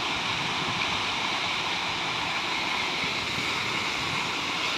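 Artificial waterfall: water pouring and splashing in a steady, even rush.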